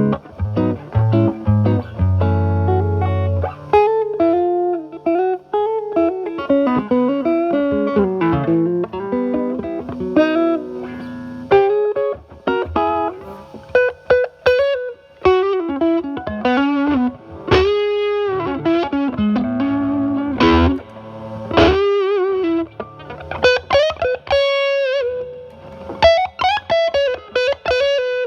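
Stratocaster electric guitar played through a Timmy overdrive pedal used as a gain booster into a Marshall Valvestate amp's overdriven drive channel. A few low chords open, then single-note lead lines with string bends and vibrato on held notes.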